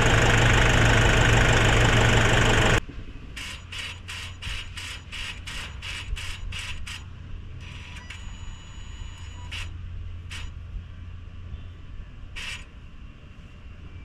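Nissan NV350 diesel engine idling steadily, the idle holding even after the suction control valve replacement and EGR cleaning; it cuts off abruptly about three seconds in. Then a quiet stretch with a quick run of short regular ticks, about two to three a second, and a few scattered ones after.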